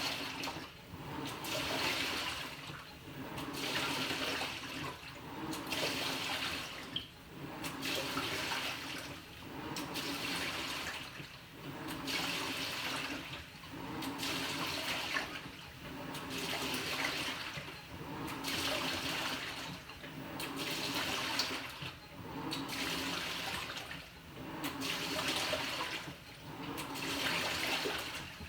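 Panasonic NA-FA100H9 top-loading washing machine in its wash stage: the pulsator churns the water and laundry back and forth, so the sloshing swells and fades about once every two seconds.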